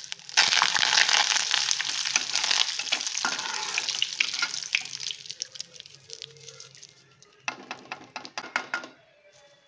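Curry leaves sizzling and crackling in hot oil. The sizzle fades over the last few seconds as the leaves are lifted out on a perforated steel skimmer to drain, with a few light metal clicks near the end.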